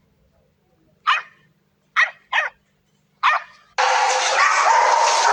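A dog barking four short, sharp barks, two of them close together. Near the end a steady, loud noise starts suddenly.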